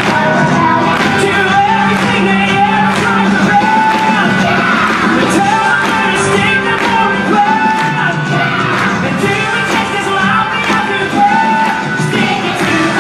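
Rock song played by a full band with singing.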